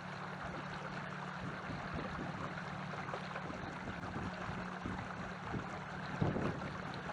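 Canoe underway: water rushing and gurgling past the hull over a steady low hum, with a short, louder sound just after six seconds.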